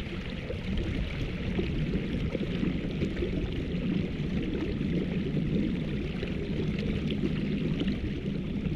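Steady splashing and rushing of water around a kayak, small waves lapping at the hull.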